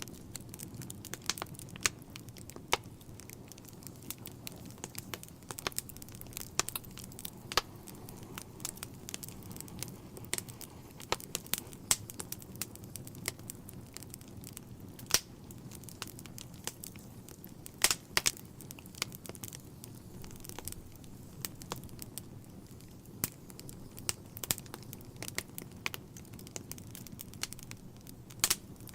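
Wood fire burning in a fireplace: a steady low roar of flames with irregular sharp crackles and pops from the logs, a few louder snaps scattered through.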